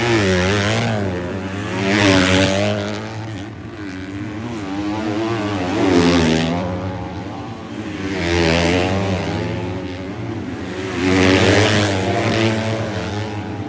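250cc four-stroke motocross bikes racing on a dirt track, their engines revving up and down through the gears. The sound swells loudest as bikes pass, about four times.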